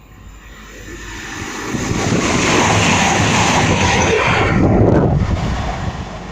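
CrossCountry diesel passenger train passing through the station at speed without stopping. The rush of air and wheel noise builds over the first two seconds, holds loud for a few seconds, then fades near the end.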